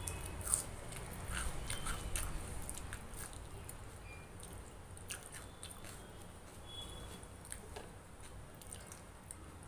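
A person chewing a mouthful of rice and curry eaten by hand, close to the microphone: soft wet mouth clicks and smacks, busiest in the first two or three seconds and sparser after.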